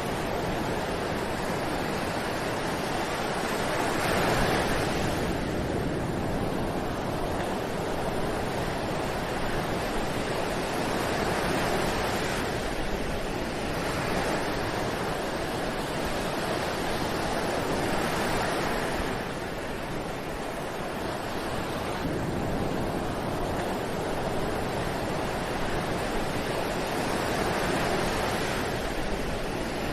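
Ocean surf: waves breaking and washing on a beach, a steady rush that swells and eases every several seconds.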